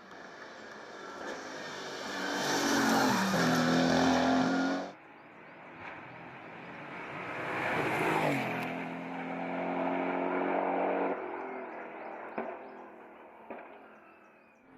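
Hill-climb race car engine at full throttle, heard passing twice. It swells loud, drops in pitch and cuts off suddenly about five seconds in; then a second pass rises, drops in pitch and fades away.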